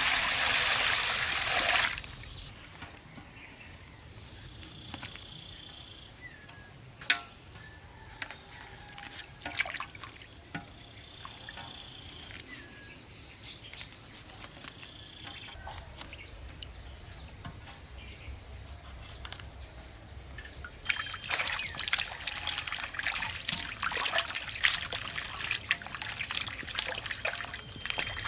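Liquid poured for about two seconds, then scattered clicks and taps of handling, over a steady, pulsing high chirp of insects.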